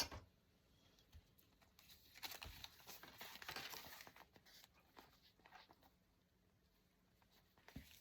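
Faint rustling of paper with a few light taps as a paper journal is handled; the rustling lasts a few seconds in the middle.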